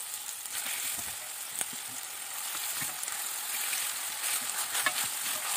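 Minced-meat patties sizzling in hot oil in a frying pan: a steady frying hiss, with a few light clicks as a metal spatula presses the patties flat.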